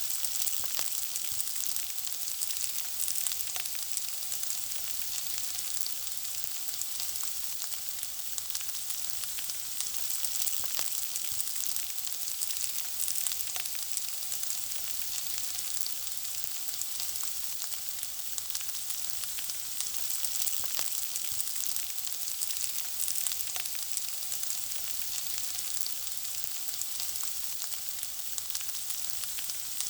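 Food frying: a steady, high sizzle with frequent small crackles.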